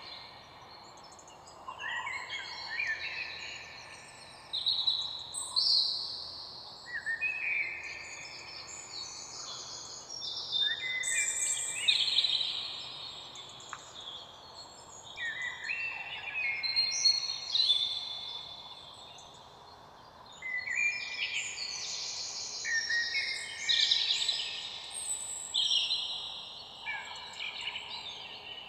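Several songbirds singing at once, a dense chorus of short high chirping and warbling phrases that come in waves with brief lulls, over a faint steady background hiss.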